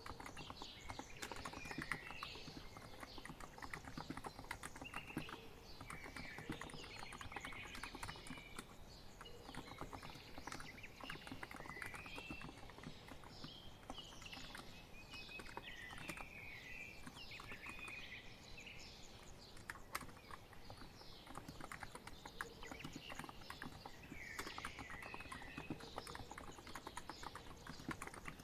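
Continuous typing on a COX Empress Living Coral Edition electro-capacitive keyboard: a steady stream of soft key clicks. Birds chirp over it in short calls throughout.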